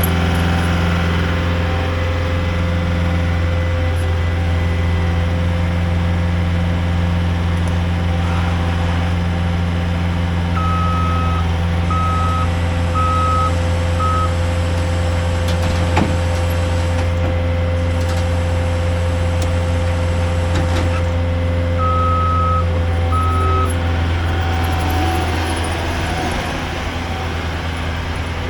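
6x6 rollback tow truck's engine running steadily, with a steady whine over it. A backup alarm beeps four times about a third of the way in and twice more near the end.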